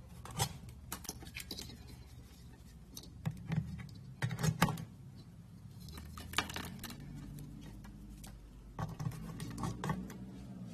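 Irregular clusters of light clicks, knocks and clinks from small hard objects being handled, busiest about four seconds in and again near the end, over a low steady hum.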